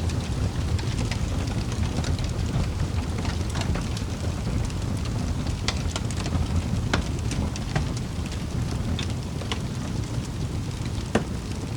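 Wood fire burning in a fireplace: a steady low rumble of flames with scattered sharp crackles and pops. The loudest pop comes near the end.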